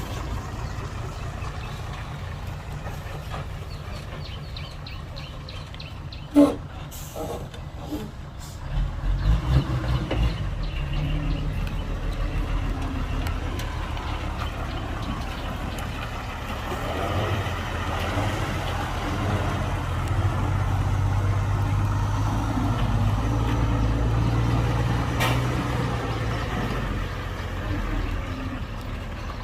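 Diesel engine of heavy earthmoving machinery running, working harder from about nine seconds in and again through most of the second half. A few short sharp clanks come around six to nine seconds in.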